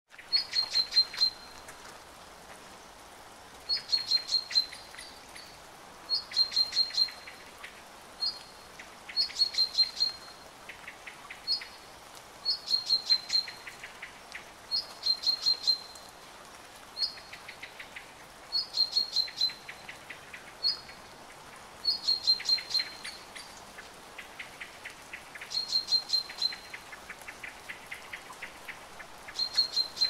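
A songbird singing short, high, rapid phrases of quick repeated notes, one every two to three seconds, over a steady hiss of rain falling on leaves.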